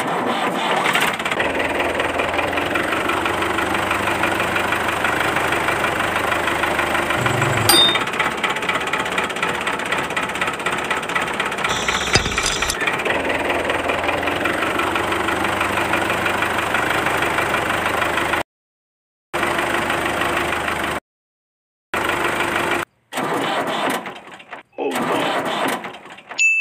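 A small motor running steadily with a rough, buzzing engine-like sound. In the last third it cuts off abruptly and restarts several times.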